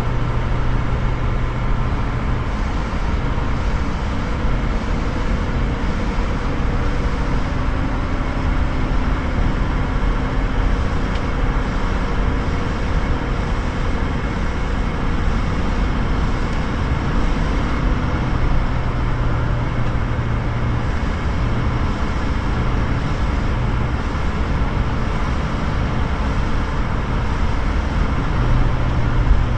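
VW T3's JX 1.6 turbodiesel engine running steadily, with a low hum that swells and fades a few times; it is the strange noise the owner is asking about.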